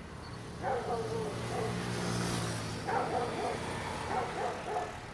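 A dog barking: one bark about a second in, then a run of quick barks near the end, over a low steady engine hum.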